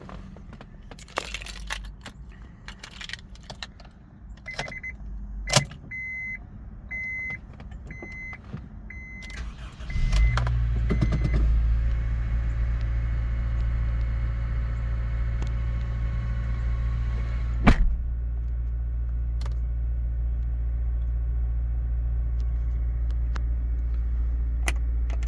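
Keys jangling and clicking, then a dashboard warning chime beeping steadily about every 0.7 seconds. About ten seconds in, the 2002 Acura RSX Type-S's 2.0-litre DOHC i-VTEC four-cylinder cranks briefly and catches on a cold start, then idles steadily. There is a single sharp click a few seconds after it starts.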